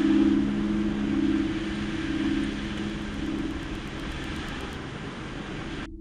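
Car driving, heard from inside the cabin as a steady road and engine noise that slowly fades. A low steady two-note hum underneath fades out about halfway through, and the sound cuts off abruptly at the end.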